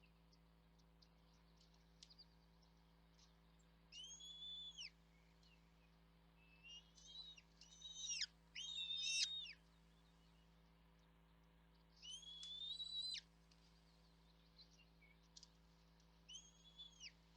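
Small birds calling in about five separate bouts of high, slightly wavering calls, each around a second long, the loudest about halfway through. A faint steady hum runs underneath.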